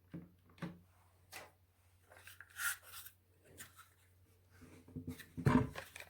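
Hand clamps being tightened on a wooden block laid across glued edge-joined boards: scattered light clicks and a short rubbing scrape, then a louder knock about five and a half seconds in.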